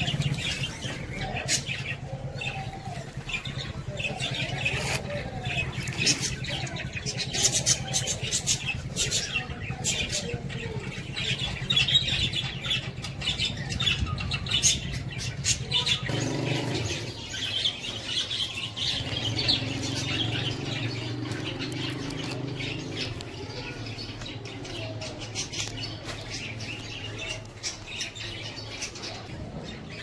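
Many small cage birds chirping together, with frequent short sharp clicks mixed in.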